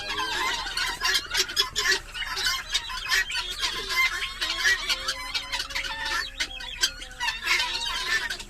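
A flock of guinea fowl calling: a dense, continuous chatter of harsh, rapidly repeated cries.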